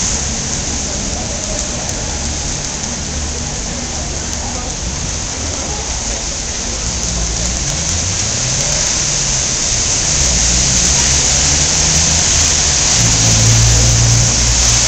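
Steady heavy rain hiss, with the low rumble of traffic beneath it; a vehicle engine's hum comes up near the end.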